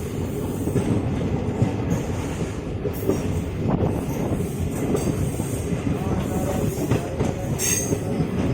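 Passenger express train running, its wheels rumbling and clattering over the rail joints, with a short high squeal near the end.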